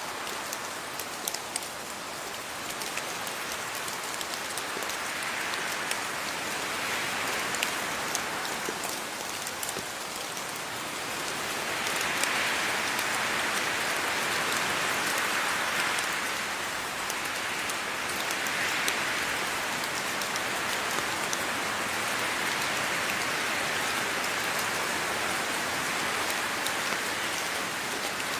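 Steady rain falling, with sharp drop taps now and then over the hiss, the downpour swelling a little and easing again.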